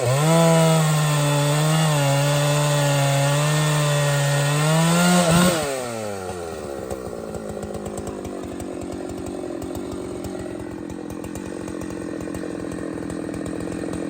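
Large two-stroke chainsaw running at full throttle with small dips in pitch as it cuts wood. About five seconds in the throttle is released and the engine note falls away, leaving a quieter, lower steady running sound.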